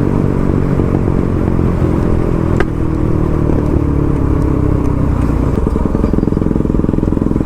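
Motorcycle engine running under way on a ride, its note easing down slowly mid-way and then settling into an even beat. A single sharp click about two and a half seconds in.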